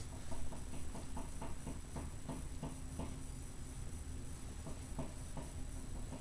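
A bird pecking: a quick run of sharp taps, about three or four a second for the first three seconds, then a few scattered taps.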